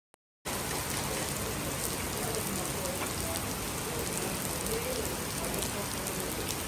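Steady rain falling, cutting in sharply about half a second in.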